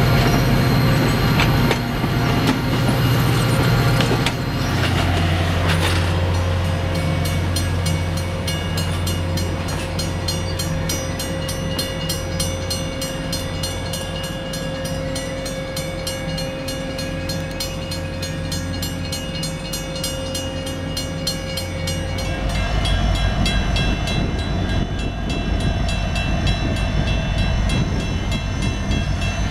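Alaska Railroad train running: passenger cars rolling on the rails, then diesel-electric locomotives running, with a low steady rumble throughout. From about six seconds in, a bell rings at a quick steady beat, and a steady tone holds until a change at about 22 seconds.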